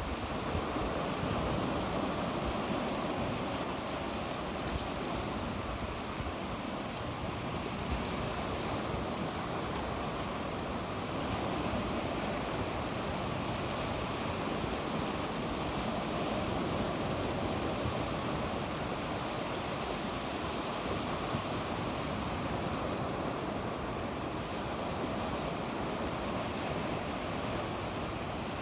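Sea waves breaking and washing steadily on the shore, with light wind on the microphone.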